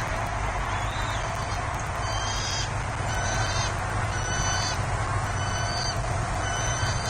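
Bald eagle calling: a run of short, high, piping calls, about one a second, over a steady low background rumble.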